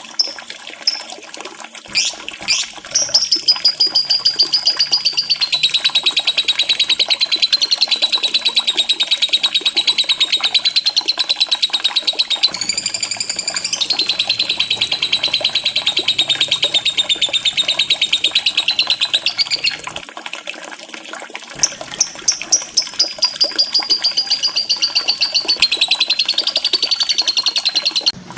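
A lovebird's long, rapid high-pitched chattering trill (the 'ngekek' used as a lure for birds that won't sing), sustained for about eighteen seconds, breaking off briefly, then starting again for several seconds more. Trickling water runs underneath.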